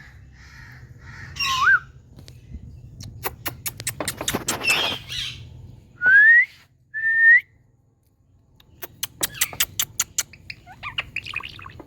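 Indian ringneck parakeet calling: squawks and sharp clicks, with two loud rising whistles about six and seven seconds in and a burst of chatter near the end.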